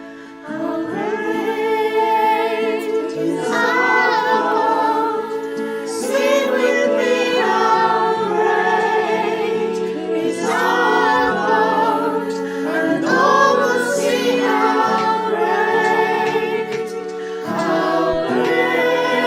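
A worship song: several voices singing together over sustained held chords, coming in about half a second in.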